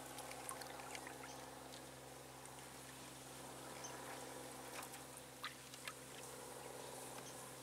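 Faint water sounds from paddling a canoe: drips and small splashes from the paddle, with a few sharper drips about five to six seconds in, over a steady low hum.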